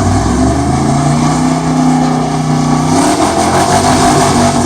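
Truck engine revving hard under load during a burnout: the pitch climbs steadily, drops about three seconds in, then climbs again.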